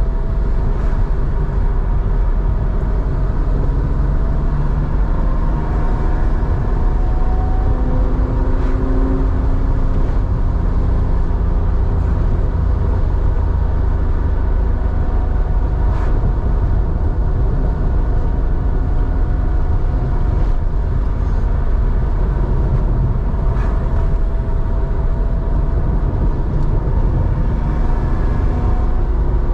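Air-cooled flat-six engine of a 1987 Porsche 911, enlarged to 3.4 litres and breathing through a SCART two-in-one-out muffler, running under way. A deep low rumble holds steady while its pitch rises and falls gently with the revs.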